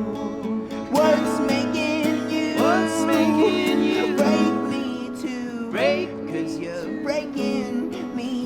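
Acoustic guitar music with chords strummed and held, and a second melody line entering about a second in that slides up into its notes.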